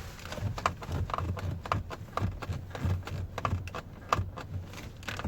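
Skoda Kodiaq door handle being pulled and let go over and over, creaking and clicking each time, roughly once or twice a second, over a low steady hum. The squeak is the handle fault taken to the dealer under warranty, which the owner finds worse once the car is warm.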